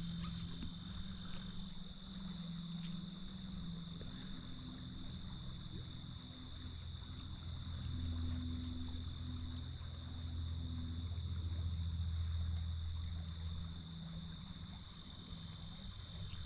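Insects trilling steadily in a high, unbroken chorus, over a low rumble that swells and fades through the middle.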